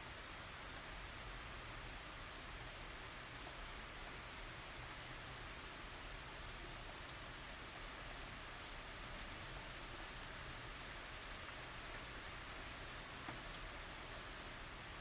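Steady tropical rain falling on surfaces, an even hiss with many fine drop ticks scattered through it and no thunder.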